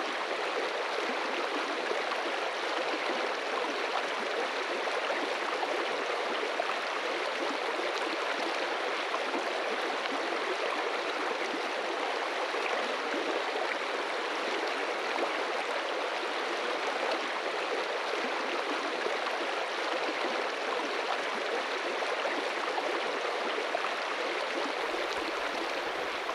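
A small brook babbling steadily over rocks, running full with winter runoff.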